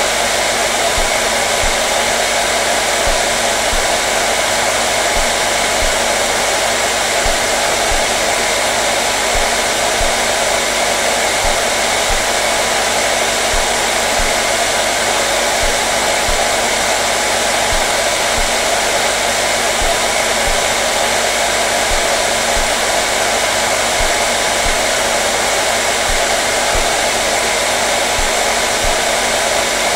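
Hair dryer running steadily: a constant whooshing blow of air with a faint motor hum, unchanging throughout.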